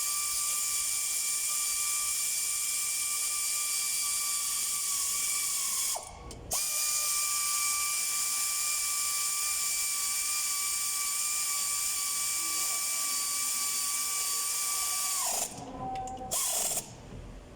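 Pneumatic air ratchet running down the crankshaft main bearing cap bolts of a Hyundai H1 gasoline engine. It gives a steady hissing whine that winds up as it starts. It runs in two long stretches with a brief pause about six seconds in, and stops shortly before the end.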